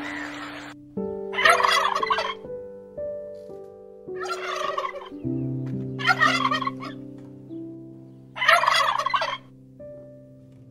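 Four loud, rough bird calls, each lasting about a second, over gentle piano music that starts about a second in.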